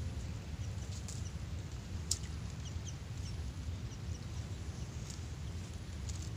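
Faint, short bird chirps over a steady low rumble, with one sharp click about two seconds in.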